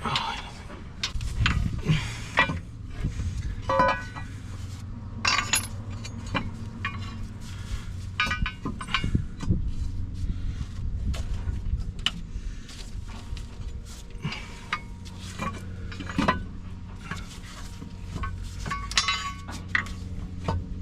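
Metal hand tools and engine parts clinking and clattering in irregular short knocks during reassembly of a diesel engine's injector area, over a steady low hum.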